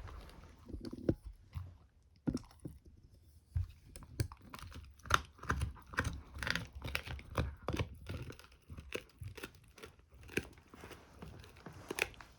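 Dog gnawing on a rawhide bone: irregular wet crunches and sharp cracks as her teeth work the hide, with a short lull early on before the chewing picks up again.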